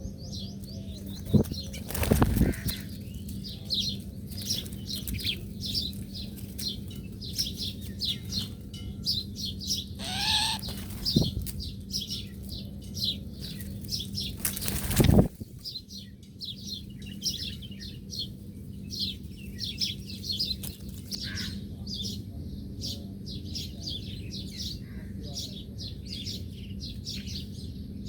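Small birds chirping in a rapid, continuous stream of short high notes, broken by a few loud whooshing bursts about two seconds in, near the middle and around fifteen seconds in, with a steady low hum underneath.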